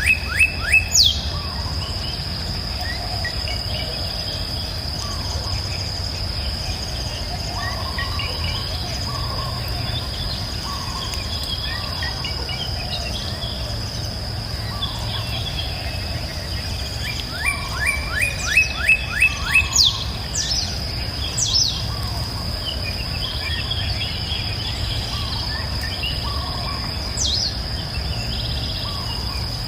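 Birds singing over a steady, high-pitched insect drone. A bird sings a quick run of rising notes right at the start and again about 18 seconds in, with softer scattered chirps between. A low, steady rumble runs underneath.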